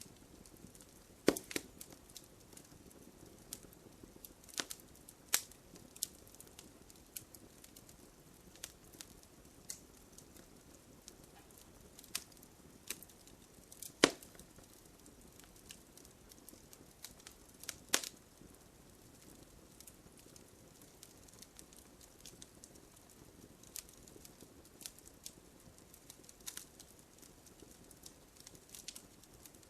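Wood campfire crackling: irregular sharp pops and snaps over a soft hiss, with the loudest snaps about a second in, halfway through and a little after.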